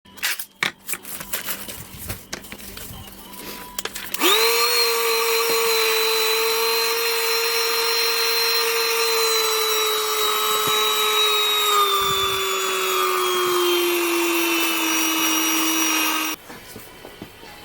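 Small battery-powered handheld vacuum/blower: a few handling clicks, then its motor switches on about four seconds in. It runs with a steady high whine that slowly drops in pitch, then shuts off a little before the end.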